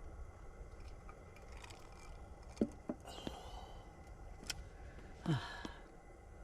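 Faint background with a few light knocks and clinks, the clearest about two and a half seconds in. A short low sound that drops in pitch comes about five seconds in.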